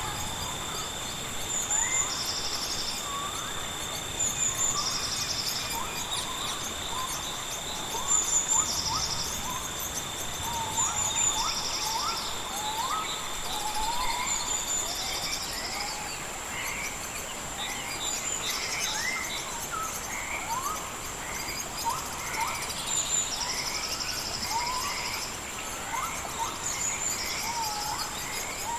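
Rainforest ambience of insects and birds: a steady high insect drone, a pulsed insect chirp repeating every second or two, and many short whistled bird calls. A second steady insect tone stops about halfway through.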